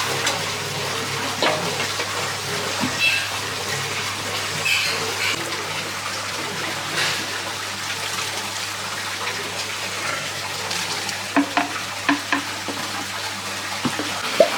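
Running, splashing water with a low steady hum that stops near the end, and a few sharp clicks about two-thirds through.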